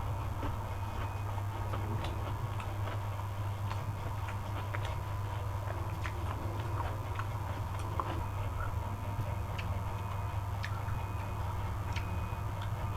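Eating sounds: scattered small clicks and ticks at irregular moments, over a steady low hum.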